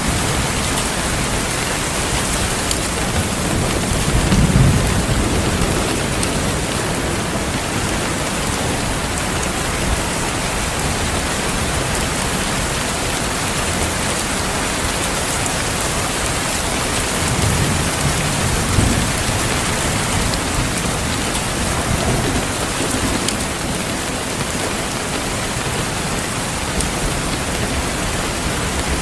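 Steady rain falling, with low rolls of thunder rumbling about four seconds in and again around eighteen seconds.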